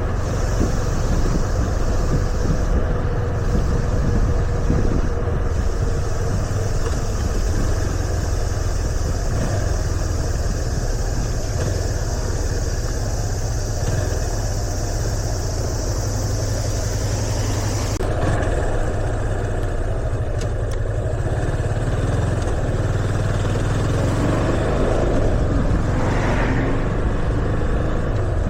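Yamaha FZS25's single-cylinder engine running under way, with road and wind noise. A steady hiss cuts off about 18 seconds in, and near the end the engine note rises and falls.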